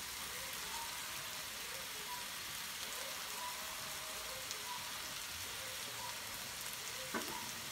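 Chicken thighs, onions and peppers sizzling steadily in a frying pan as a jar of simmer sauce is poured over them. A brief knock about seven seconds in.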